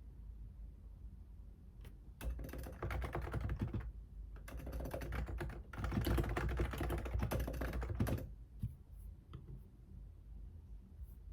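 Fast typing on a computer keyboard. A burst of rapid key clicks starts about two seconds in, then comes a short pause and a longer run of typing that stops about eight seconds in. A few single keystrokes follow.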